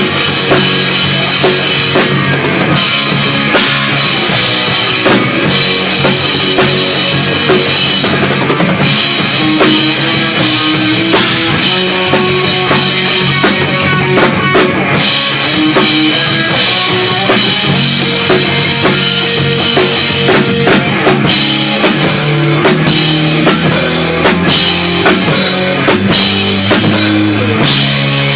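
Rock band music driven by a full drum kit, with bass drum and snare hits under moving pitched lines from the other instruments.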